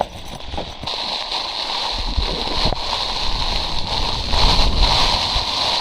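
Strong, gusting blizzard wind blasting across the microphone, with a low rumble that builds about two seconds in and a few short knocks.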